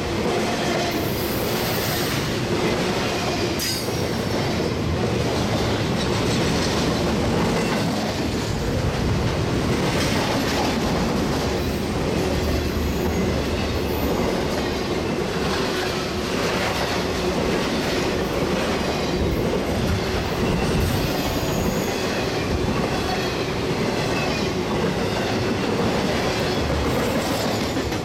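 Freight cars of a Norfolk Southern intermodal train, trailers on flatcars, rolling steadily past. Wheels rumble and click over the rail joints, with brief high wheel squeals now and then.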